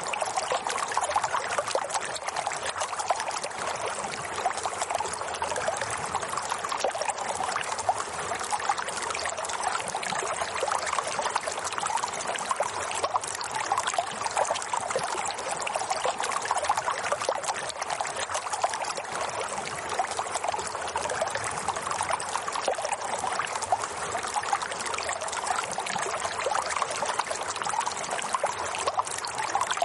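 Running water flowing steadily, a continuous trickling and splashing stream sound.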